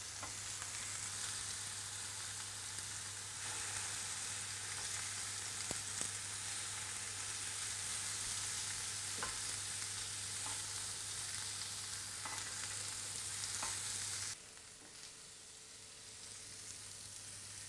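Oil-marinated vegetable slices sizzling steadily in a hot grill pan, with a few light taps of the tongs against the pan as the pieces are turned. The sizzle drops suddenly to a quieter level near the end.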